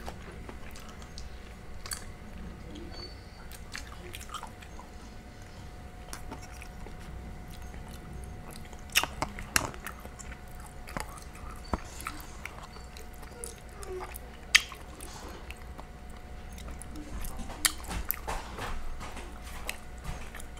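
Close-miked chewing and mouth sounds of a person eating curry chicken and steamed purple cabbage, with a few sharp clicks scattered through, most of them in the second half.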